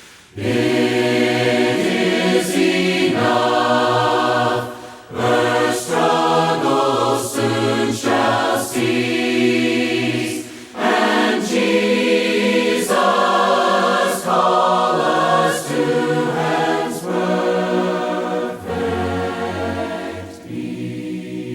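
A group of voices singing a hymn in harmony, unaccompanied, in sustained phrases with short breaths between them.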